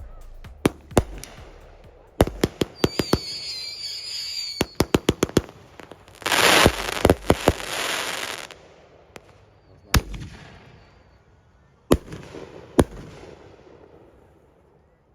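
Fireworks going off: a rapid string of sharp bangs with wavering whistles, then a loud two-second rush of dense crackle about six seconds in, followed by a few single bangs that die away.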